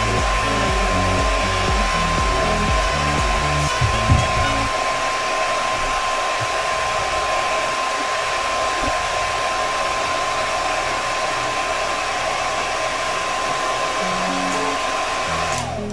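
Infinix foldable hair dryer with a diffuser attachment running steadily on a constant setting: a steady rush of air with a thin, even whine, switched off just before the end, the whine dropping away as it winds down.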